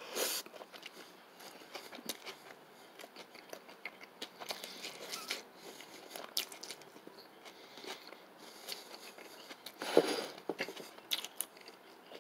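A person biting into a burger with a pan-fried plant-based patty cooked too crispy, then chewing it with many small crunches. The bite at the start is the loudest, with another louder crunch about ten seconds in.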